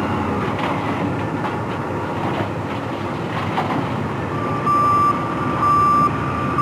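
Heavy construction machine running with a steady engine rumble. About two-thirds of the way in, its reversing alarm starts beeping: one steady tone about once a second while it backs up.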